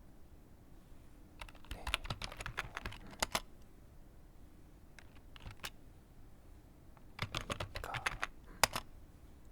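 Typing on a computer keyboard: two quick runs of key clicks with a few scattered keystrokes between them.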